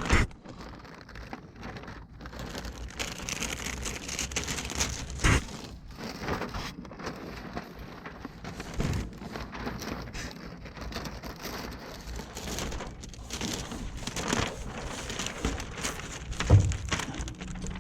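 Window tint film being worked onto wet rear glass: irregular crinkling and crackling of the plastic film, with a couple of louder knocks.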